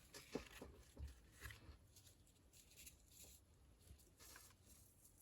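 Faint rustling and a few soft taps of lace trim and paper being handled and laid in place.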